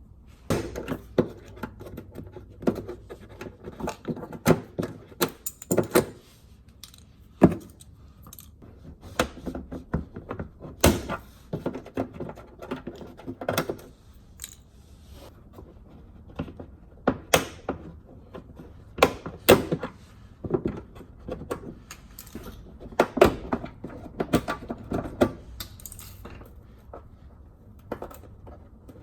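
Two flathead screwdrivers prying plastic retaining clips out from under a Subaru WRX STI's rocker panel: an irregular run of sharp clicks, scrapes and small knocks, with a few louder knocks spread through.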